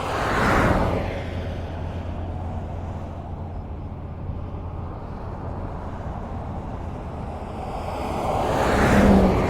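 Highway traffic: cars passing at speed with steady tyre and road noise. One vehicle rushes past about half a second in and another near the end, with a low engine hum in between.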